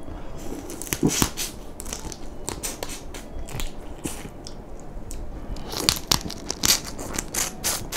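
Person chewing and biting into crayfish eaten shell and all, a steady run of sharp crunches and crackles, loudest about six to seven seconds in.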